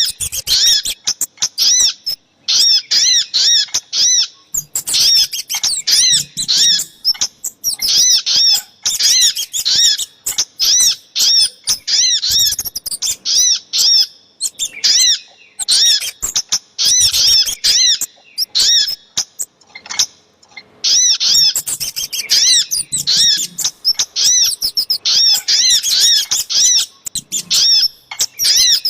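Bird-lure recording mixing sogok ontong (little spiderhunter) and kemade calls: rapid runs of short, high, arched chirps repeated many times a second, in bursts of a few seconds with brief pauses between them.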